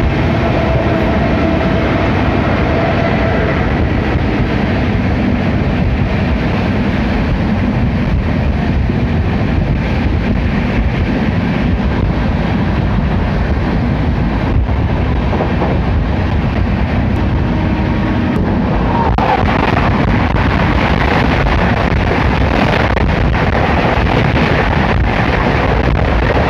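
Steady running noise of a passenger train at speed, heard from an open coach door: wheels rumbling on the rails. From about two-thirds of the way in the noise grows brighter as another train runs alongside on the next track.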